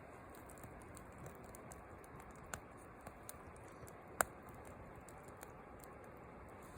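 Wood fire crackling in a fire pit: scattered small snaps over a faint steady hiss, with one sharper pop about four seconds in.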